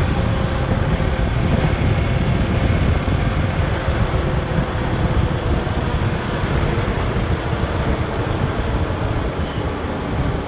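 Motorcycle engine running steadily on the move, with wind rumble on the microphone.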